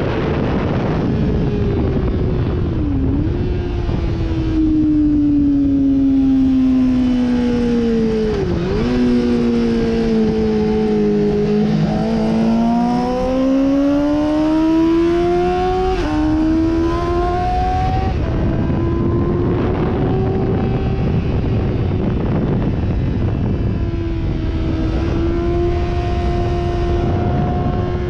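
Sportbike engine at high revs over a heavy rush of wind and road noise. The revs fall with two quick dips as it comes off the throttle and downshifts, then climb hard through the gears with an upshift drop partway up, before holding steady.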